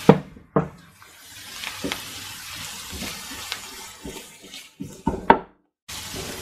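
Chopped onions, ginger, garlic and green chillies sizzling in oil in a frying pan, stirred with a wooden spatula that knocks against the pan several times, loudest at the start and about five seconds in.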